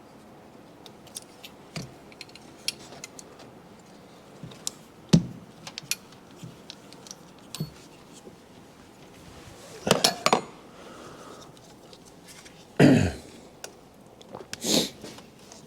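Hand tools and metal engine parts clicking and clinking during hands-on reassembly work, with a sharp knock about five seconds in and heavier clattering knocks near the middle and toward the end.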